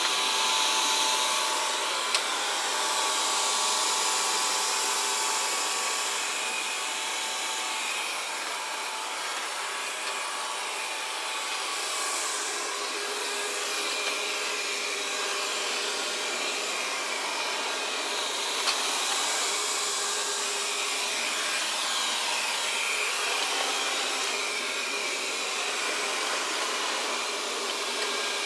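Xiaomi Mijia robot vacuum running while it cleans the floor: a steady motor whir with faint shifting tones, and two brief clicks about 2 and 19 seconds in.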